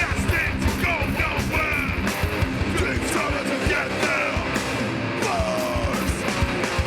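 Live heavy rock band playing loudly: distorted electric guitars, bass and pounding drums, with gliding guitar notes sliding up and down over the beat.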